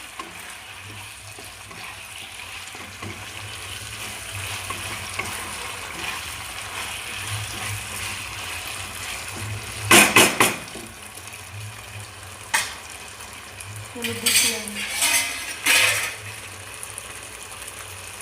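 Chilli chicken sizzling and simmering in a kadai after a splash of water, a steady hiss. A spatula scrapes and clanks against the pan about ten seconds in, once more briefly, and again in several strokes a few seconds later.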